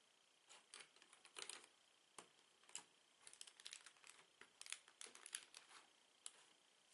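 Plastic Lego bricks being handled and clicked together: a quiet run of irregular short clicks and light rattles, thickest in the second half.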